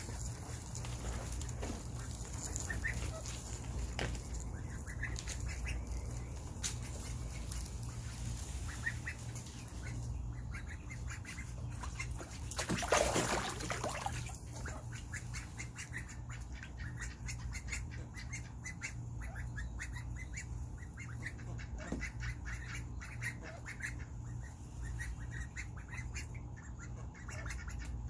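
Young Indian runner ducks in a backyard pool dabbling and chasing fish, with a steady patter of small splashes, bill clicks and soft calls. A louder rush of noise comes about thirteen seconds in, over a steady low hum.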